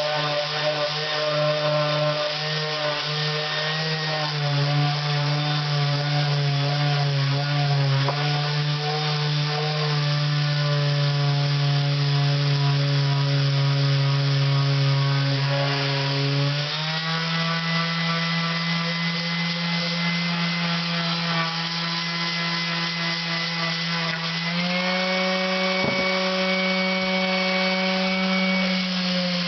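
Electric power tool running with coarse P60 sandpaper against a cylinder head's face, a steady motor hum over a rough rubbing noise. The motor's pitch shifts up or down three times as the speed or load changes.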